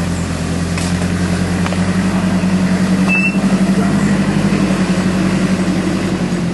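A motor vehicle's engine running steadily while driving, with a brief high squeak about three seconds in.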